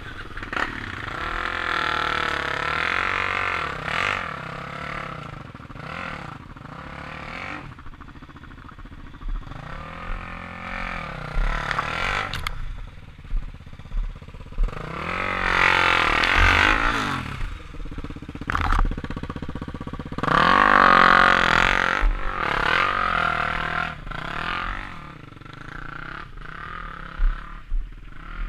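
Motorcycle engines revving up and down in repeated swells, the loudest about halfway and about three quarters of the way through.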